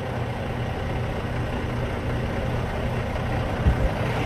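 Semi-truck diesel engine idling steadily, with a short thump near the end.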